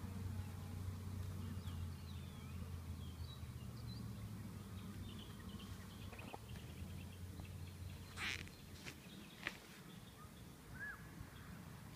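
Low steady hum of honeybees from an opened hive that fades about eight seconds in, with faint bird chirps throughout and two short sharp sounds near the end.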